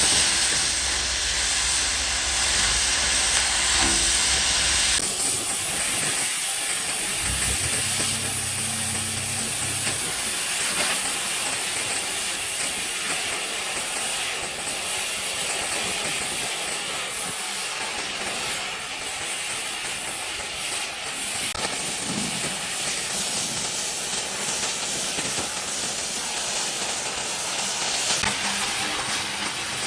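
A steady hiss that runs unbroken, with a low hum underneath that stops about five seconds in.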